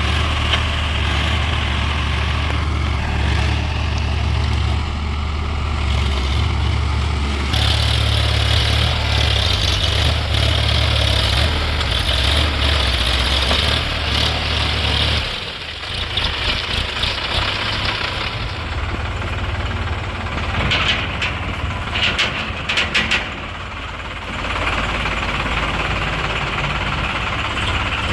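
Diesel tractor engines running steadily, the sound shifting abruptly about a quarter, half and three-quarters of the way through, with a few sharp clicks in the last third.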